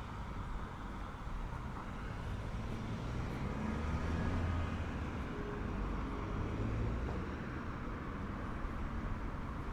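Street traffic: a motor vehicle's low rumble swells as it passes, loudest about halfway through, over a steady background of city road noise.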